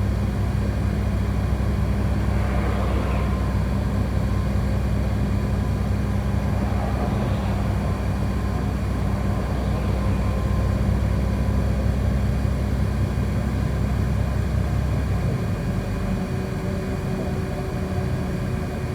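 City bus engine and running noise heard from inside the cabin while riding: a steady low rumble. About three-quarters through, the low engine drone falls away as the engine eases off.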